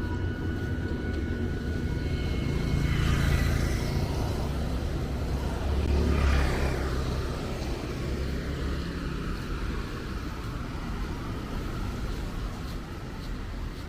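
Street traffic with a steady low rumble; two vehicles pass close by, about three and six seconds in, their tyres hissing on the wet road.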